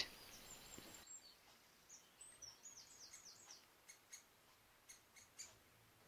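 Faint, high-pitched bird calls: a quick run of short falling chirps in the middle, then a few short, sharp ticks near the end.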